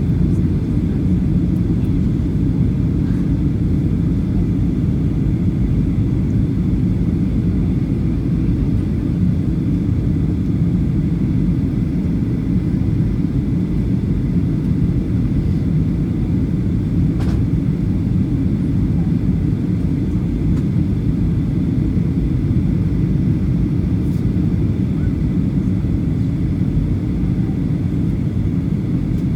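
Steady low rumble inside the cabin of a Boeing 737-800 on the ground after landing, from its CFM56 engines at idle and the airframe rolling, with a faint steady whine over it.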